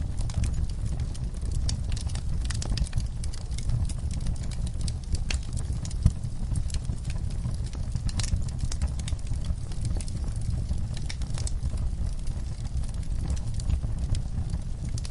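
Wood fire crackling in a fireplace: a steady low rumble of the flames with many irregular sharp pops and crackles, one louder pop about six seconds in.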